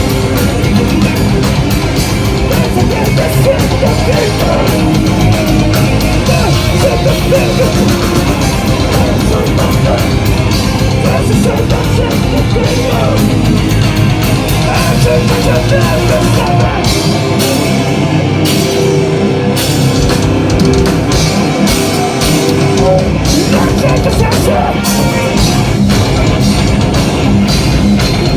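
Hardcore band playing live at full volume: distorted guitars, drum kit and vocals. For a few seconds past the middle the deepest bass drops out before the full band returns.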